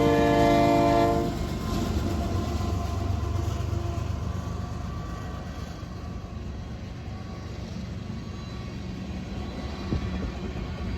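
Train horn sounding a loud chord of several notes that cuts off about a second in, followed by the low rumble of the passing train, slowly fading.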